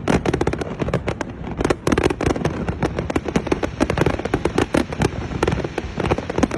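Fireworks display: a dense, continuous barrage of sharp bangs and crackles, many per second, over a low rumble of echoing bursts.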